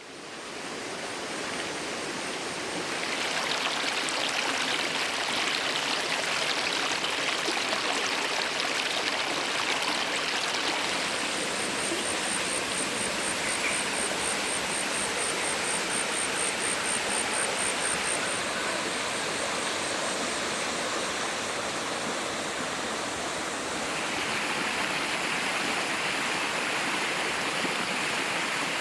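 Steady rush of a natural waterfall and its stream pouring over rocks, fading in at the start. A high, fast-pulsing trill sounds over it through the middle.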